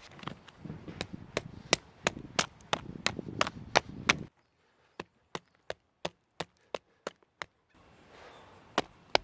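Firewood being chopped or split, a blade striking wood in a steady series of sharp knocks about two to three times a second.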